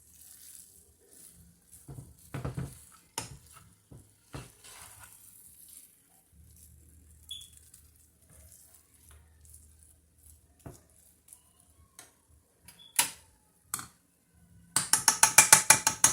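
Clinks and knocks of cutlery against dishes, with a loud, fast rattling run of clicks near the end, as food is about to be scooped.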